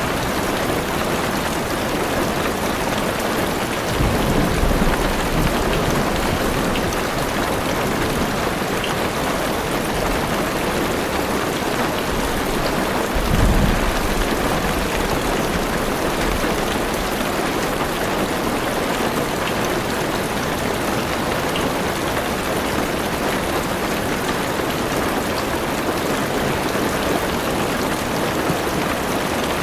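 Heavy rain drumming steadily on a car's roof and windows, with two brief low rumbles of thunder, about four seconds and about thirteen seconds in.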